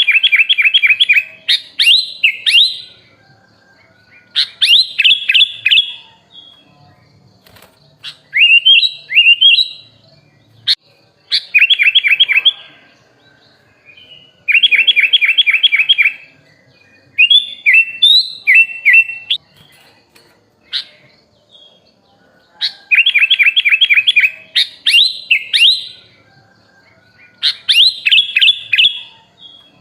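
Sooty-headed bulbul (kutilang) singing in repeated phrases: quick trilled runs of rapid notes alternating with rising whistled notes. The phrases come in bursts of a second or two with short pauses between them.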